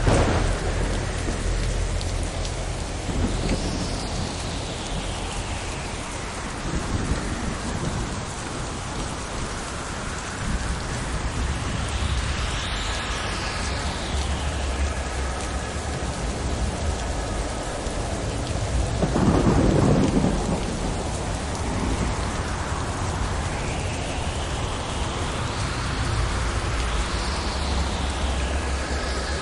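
Steady rain falling, with low rolling thunder under it and a louder rumble about twenty seconds in. Several swishing sounds swell and fade over the rain.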